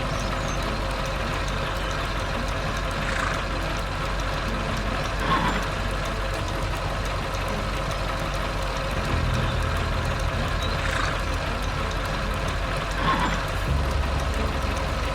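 Heavy vehicle engine running steadily, the red tractor's engine sound effect. Four short higher-pitched sounds break in, about 3, 5, 11 and 13 seconds in.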